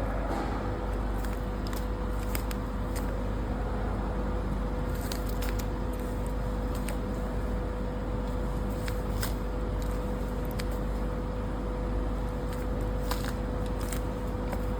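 Automatic salt packaging machine with a volumetric cup filler, running steadily. It makes a constant hum with a steady mid-pitched tone, over which sharp clicks and ticks come at irregular moments.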